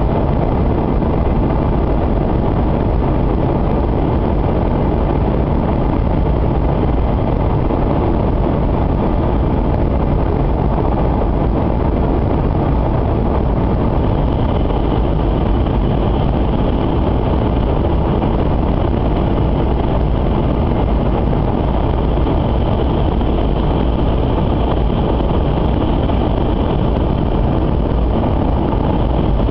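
Steady rumble of an 800 series Shinkansen train running, heard inside the passenger cabin; a faint higher hiss joins about halfway through.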